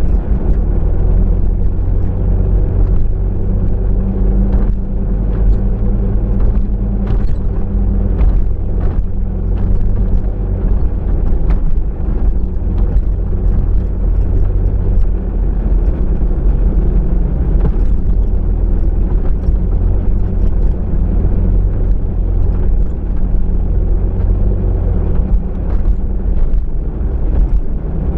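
Steady low rumble of a car's engine and tyres on the road, heard from inside the moving car, with a few faint ticks.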